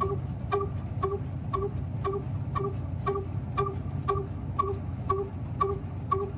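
Old single-cylinder black diesel engine running steadily: a low rumble with a regular ringing knock about twice a second.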